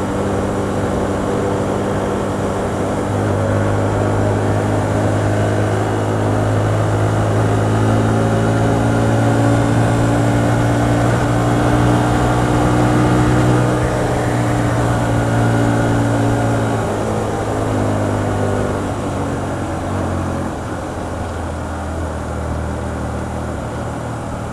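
Hyosung GT125R's 125 cc V-twin engine running on the move, its pitch climbing gently under throttle, then dropping about halfway through and settling lower as the throttle is rolled off onto engine braking. Wind rush runs underneath.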